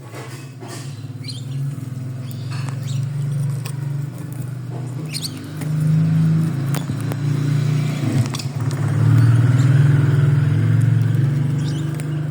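A steady low mechanical hum, swelling louder about halfway through, with a few short high chirps over it.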